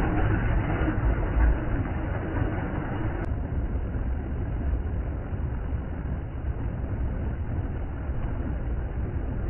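Steady rushing of a fast, turbulent river: an even low rumble with a hiss on top. About a third of the way in there is a single click, and the higher hiss drops off.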